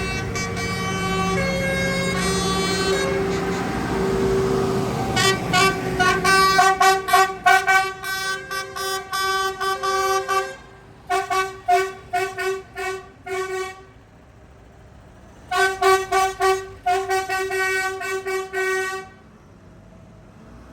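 A vehicle's multi-note musical horn playing a tune in quick, rhythmic toots that change pitch, in three runs with short pauses between. An engine runs under the first few seconds.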